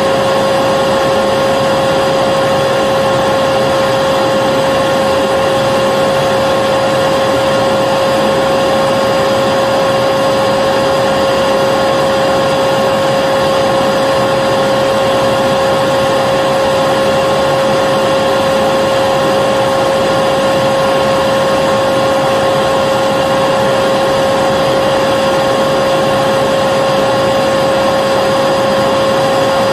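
Vacuum cleaner motor running steadily: an even rushing noise with a constant whine.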